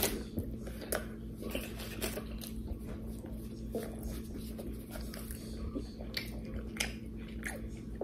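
Close-up chewing of a mouthful of burger: irregular wet smacks and clicks of the mouth, over a steady low hum.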